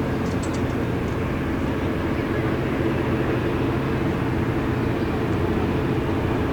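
Small tugboat's diesel engine running at a steady, even pitch as the boat sails past.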